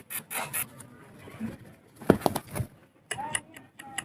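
Pet parrot making a string of short chattering calls and squeaks, a couple with a brief sliding pitch near the end.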